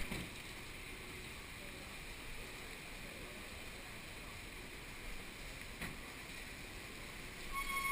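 Steady noise of wind and rain hitting a head-mounted GoPro Hero2 camera during a typhoon, with a couple of faint knocks and a brief steady tone near the end.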